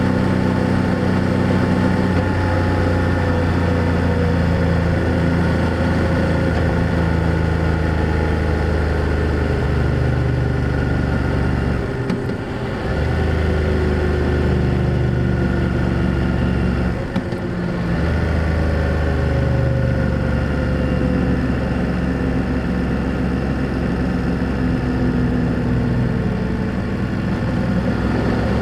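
BMW F800GS parallel-twin engine and exhaust running under way, its note drifting slowly up and down in pitch. The sound dips briefly twice, about 12 and 17 seconds in.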